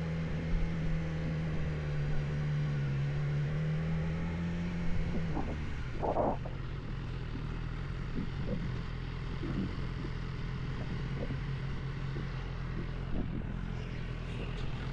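Motorcycle engine running steadily in a low gear, its note easing down about five seconds in, with a few brief faint blips.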